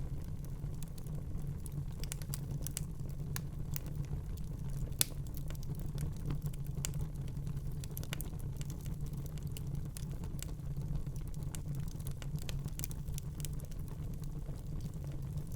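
Wood fire burning in a fireplace: a steady low rumble of the flames with irregular sharp crackles and pops, one louder pop about five seconds in.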